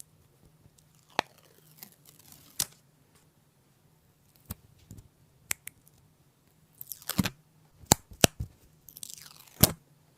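Small hard objects being handled on a work surface: scattered sharp clicks and taps, with a few short scraping strokes. The sounds come closer together and louder in the second half, with a quick run of clicks and scrapes.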